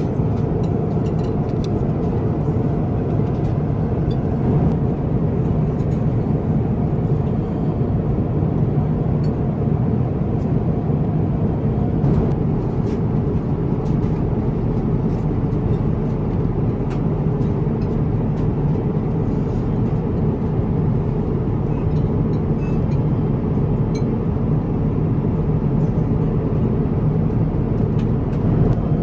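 Steady cabin noise of an Airbus A350-1000 in flight: an even, low rush of airflow and engine noise, with a few faint clicks.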